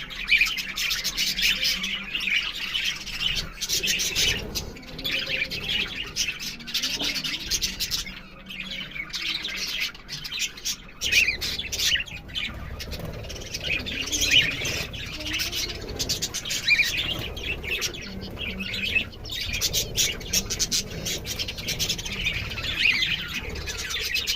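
Budgerigars chirping and chattering, a steady stream of quick high chirps and warbles with only brief breaks.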